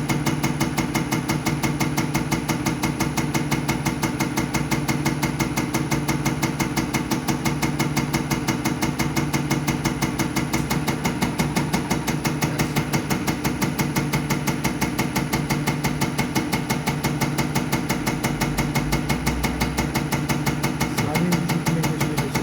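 Diesel injection test bench running a Bosch 0414799005 unit pump through its test: a steady motor hum with a rapid, even ticking of the pump's injection strokes.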